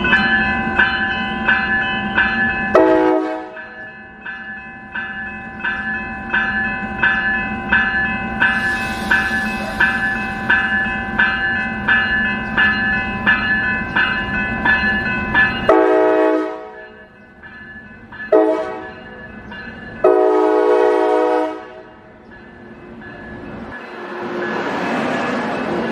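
Railroad grade-crossing bell ringing about twice a second while an approaching train sounds its horn in four blasts, the last one the longest: the warning pattern for a grade crossing. Near the end the rumble of the train rises as it comes close.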